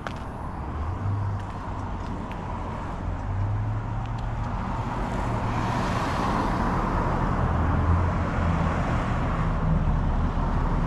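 Car engine running with a low rumble, growing louder over the first half.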